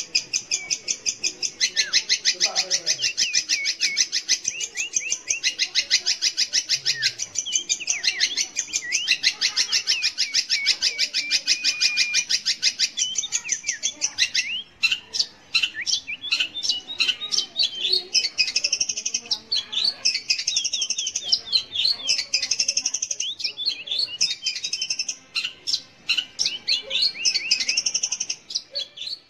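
Long-tailed shrike (cendet) singing a fast, continuous chattering run of rapid high notes laced with short whistled glides; about halfway through, the chatter breaks into separate phrases with rising and falling whistles.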